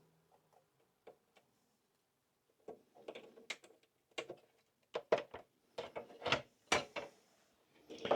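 Sharp clicks and knocks of PlayStation 5 parts being handled and fitted during reassembly. One faint click comes about a second in, then a quick, irregular run of clicks from about three seconds in.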